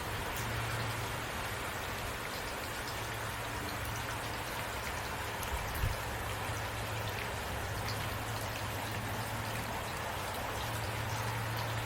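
Heavy rain falling steadily, with a brief low thump about halfway through.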